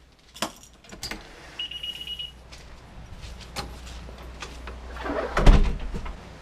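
A few sharp clicks and knocks, a short, steady high electronic beep, then a heavy thump with a deep rumble about five and a half seconds in.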